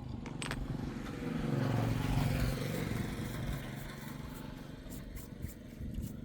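An engine running, getting louder about two seconds in and then easing back.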